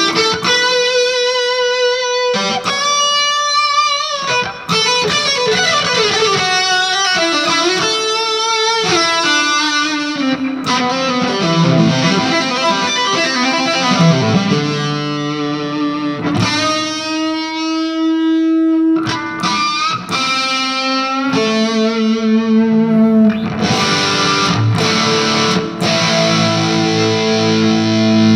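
Electric guitar with a humbucker pickup played through a 2-watt all-valve amp built on a single 6AF11 Compactron tube, pushed into overdrive by a booster pedal. It plays a lead with fast runs, bent notes and a long held note near the middle.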